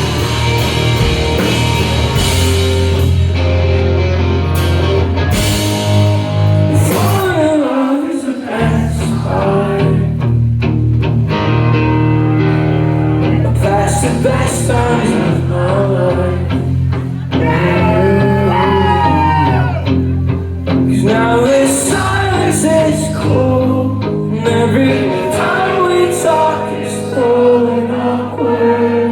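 Live rock band playing with a sung lead vocal over guitars, bass and drums. The bass drops out briefly about eight seconds in, then the full band comes back.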